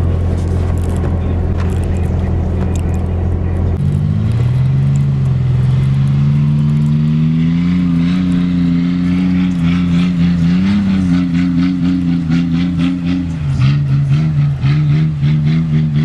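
Ford Ranger pickup's engine running in deep snow: it runs low and steady, then revs up about four seconds in and holds a higher, steady pitch, dipping briefly near the end. A fast, even ticking joins in over the second half.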